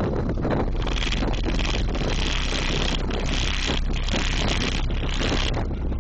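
Loud, deep bass from a car-audio system with four 15-inch subwoofers, overloading the phone microphone into a steady, distorted rumble.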